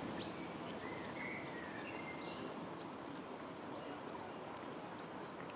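Outdoor ambience: a steady hiss with faint, short bird calls and chirps, clustered in the first half.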